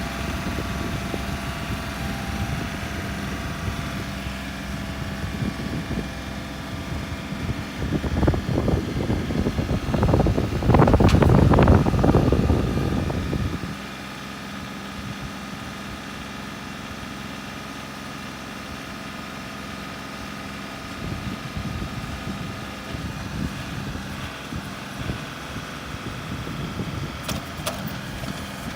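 An engine running steadily. It grows louder and rougher for a few seconds around the middle, then drops back to a quieter, even run.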